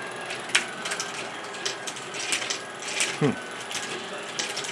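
Motorized ROKR wooden marble run working: wooden gears and lift mechanism whirring steadily under irregular clicks and clacks of marbles on the wooden track. A short falling-pitch sound comes about three seconds in.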